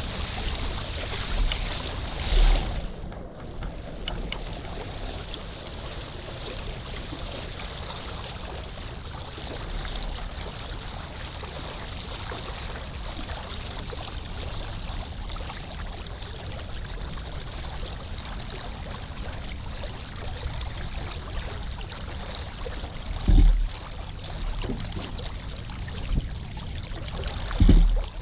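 Water rushing along a small sailboat's hull, with gusty wind buffeting the microphone; stronger gusts come about two seconds in and twice near the end.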